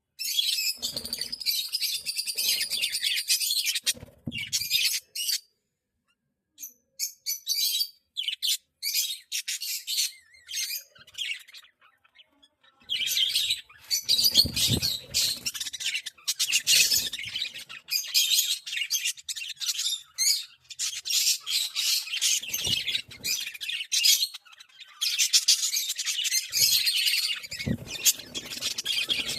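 Budgerigars chattering and warbling: fast, high chirps in long runs, pausing for a couple of seconds about five seconds in and again briefly around twelve seconds.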